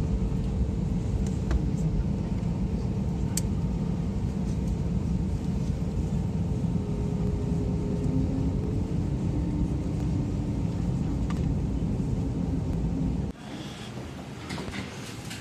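Steady low rumble inside an Airbus A320 cabin after landing, with faint steady engine tones over it. About 13 seconds in it cuts off abruptly to a much quieter background with a few clicks.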